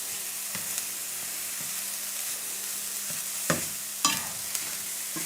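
Chopped mushrooms sizzling in a dry frying pan with no oil, cooking in the water they give off, with a few sharp knocks of a utensil stirring them. The loudest knocks come about three and a half and four seconds in.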